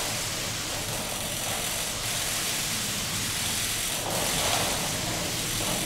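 Steady hiss and splashing of water falling from a digital rain curtain, with a low steady hum beneath it.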